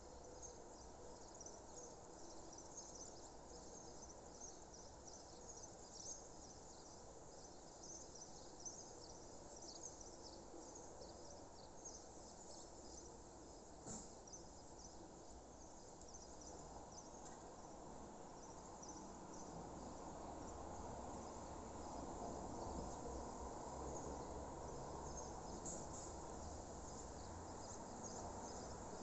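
Faint natural outdoor ambience: many short, high chirps keep going over a low background hiss, and the hiss swells from about twenty seconds in.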